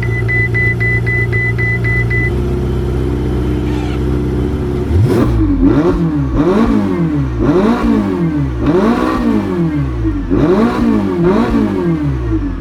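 Ferrari 488 Spider's twin-turbo V8 idling, then blipped repeatedly: about six quick revs, each climbing and dropping back, about one every second and a half. A rapid beeping runs over the idle for the first two seconds.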